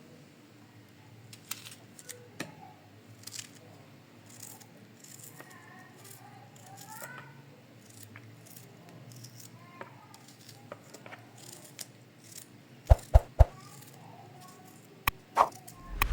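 Intermittent light clicks and rattles of small objects being handled, with three sharp knocks in quick succession near the end.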